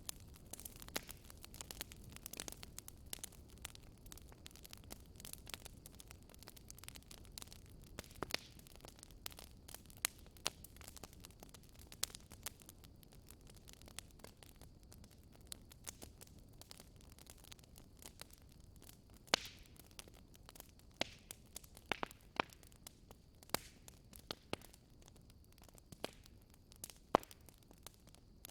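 Wood fire in a fireplace crackling and popping: a steady patter of small irregular crackles over a faint low rumble, with a few louder single pops in the second half.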